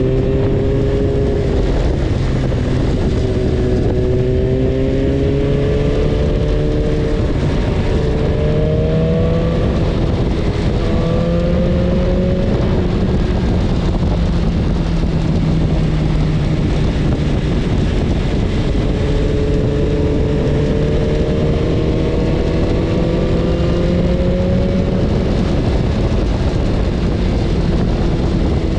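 BMW S1000RR inline-four sport bike engine under way, its note climbing slowly and dropping back several times as the rider accelerates and shifts, over steady wind and road noise.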